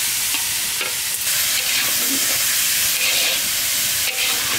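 Diced potatoes sizzling in hot oil in a large iron karahi, stirred and scraped now and then with a long metal spatula.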